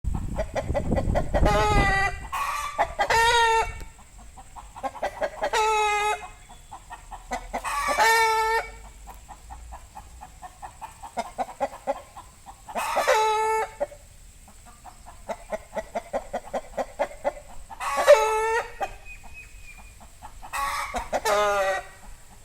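Aseel chicken calling: about seven loud calls of under a second each, spread a few seconds apart, with quick soft clucking between them. The title takes these for alert calls.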